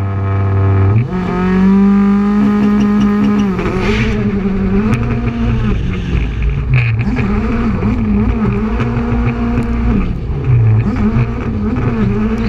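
Rally car engine running hard. About a second in it climbs to a high note and holds it for a couple of seconds, then the note rises and falls with throttle lifts and gear changes, with one short drop about ten seconds in.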